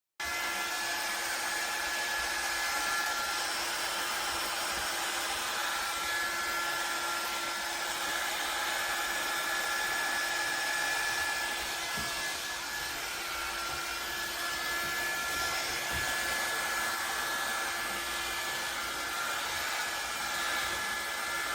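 Hair Trends Nano Titanium 2-inch hot air brush (a mini blow-dryer brush) running steadily: an even fan rush with a steady whine over it.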